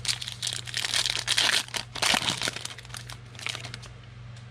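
Foil wrapper of a trading-card pack crinkling as it is torn open and the cards pulled out, a dense run of crackles that dies down after about three seconds. A steady low hum runs underneath.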